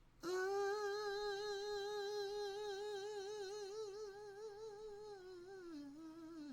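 A voice holding one long sung or hummed note, with a vibrato that grows wider, then sliding down in pitch near the end before it cuts off.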